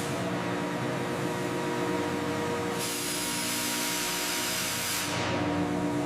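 Wood-processing factory machinery running: a steady hiss over a hum of several steady tones, starting suddenly and growing brighter for a couple of seconds midway.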